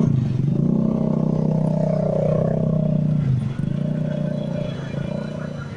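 A motor engine running close by, holding a steady note and then dropping off somewhat a little after three seconds in.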